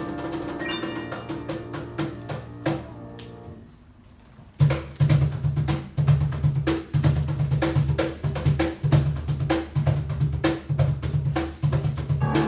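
Piano and percussion playing live. A piano passage dies away, and after about a second of near-quiet a drum comes in, about four and a half seconds in, with a steady driving beat of low thumps and sharp clicks under the piano.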